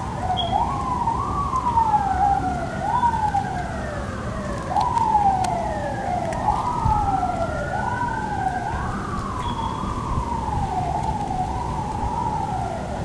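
Emergency vehicle siren wailing, its pitch rising quickly and falling slowly about every second and a half, with a second siren overlapping for a few seconds in the middle. A steady low rumble runs beneath it.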